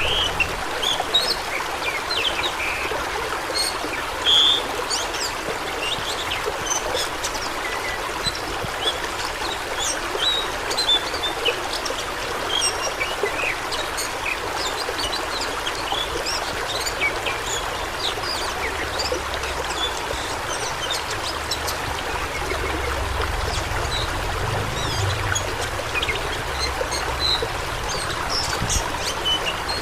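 Fast-flowing stream water, a steady rush with many short high plinks and splashes scattered through it.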